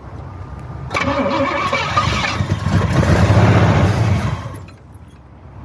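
1967 Pontiac Firebird engine firing on gas fed from a bottle, catching about a second in and running and revving louder for a few seconds, then dying out near the end.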